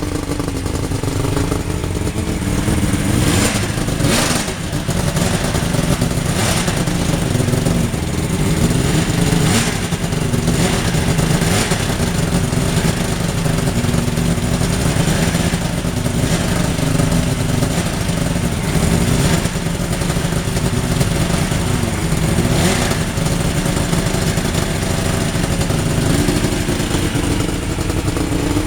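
Mercury outboard engine in a homebuilt sidecar racer running just after a cold start, its revs rising and falling again and again as the throttle is blipped, with a few sharp cracks in between.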